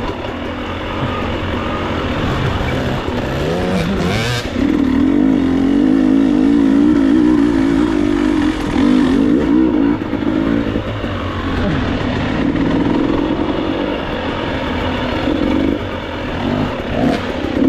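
Enduro motorcycle engine revving unevenly under load, its note wavering up and down as the throttle is worked. There is a brief knock about four seconds in.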